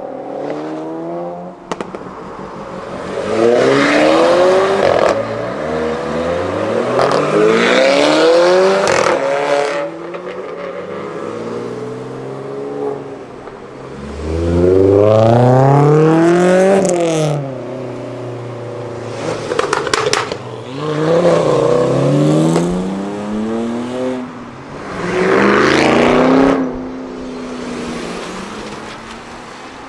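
Several modified cars accelerating hard one after another, their engines revving up through the gears in rising sweeps with drops at each gear change; about five loud runs, with a few sharp cracks about twenty seconds in.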